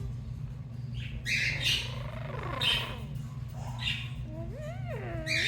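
Amazon parrot squawking in a string of short, harsh calls, with a few wavering whistled glides near the end. A steady low hum runs underneath.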